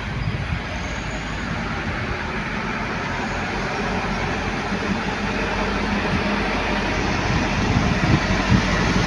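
Heavy truck engine and road noise growing steadily louder as the truck approaches, with a few low thumps near the end.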